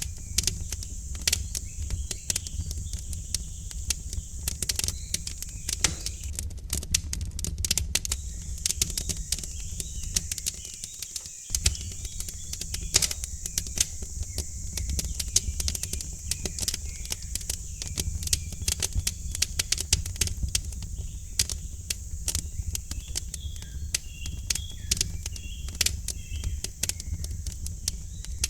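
Wood fire crackling with frequent sharp, irregular pops over a low steady rumble, with faint birds chirping.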